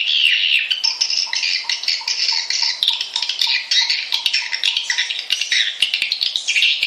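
Swiftlet lure call track: a dense, continuous chatter of swiftlet calls, rapid high twittering chirps and clicks, the kind of recording played to draw swiftlets into a nesting house to roost. A faint low pulse repeats about three times a second through most of it.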